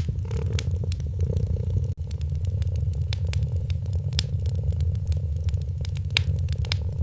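Wood fire crackling with sharp, irregular pops over a cat's steady low purr. The sound briefly drops out about two seconds in.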